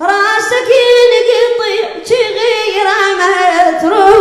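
A munshid chanting a Husseini lament without accompaniment: one high, ornamented sung phrase with wavering pitch, broken briefly about two seconds in before it goes on.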